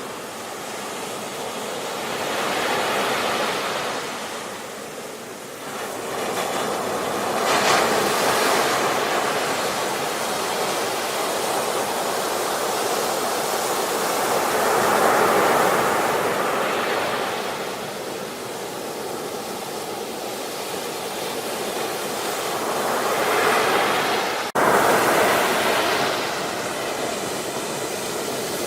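Ocean surf: waves breaking and washing up the shore in a steady rushing noise that swells and ebbs every several seconds. It is broken by a sudden momentary cut near the end, after which the surf is louder.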